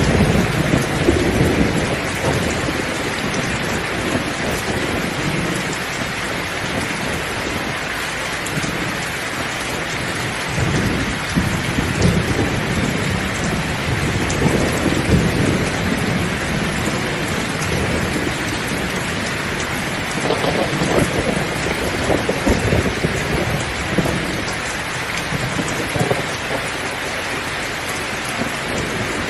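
Heavy rain pouring steadily, with low rumbles of thunder swelling and fading several times, the loudest one dying away at the start.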